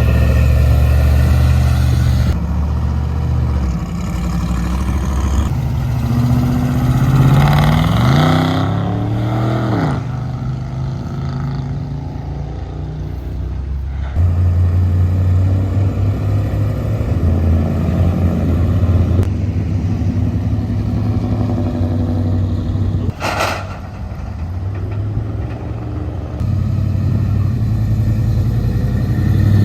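Loud car engines running at a low rumble, with one engine revving up and dropping back about a quarter of the way in. A single sharp crack comes past the two-thirds mark.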